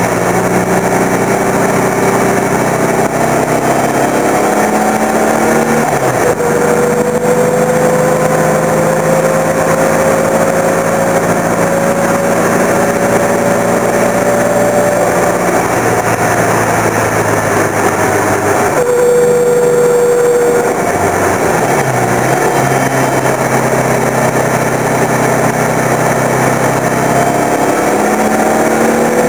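Turbocharged Volkswagen Beetle engine pulling hard on track, its pitch climbing through the revs and dropping at gear changes about six seconds in and again near the end. Around halfway the engine eases off, then holds a steady note briefly before accelerating again.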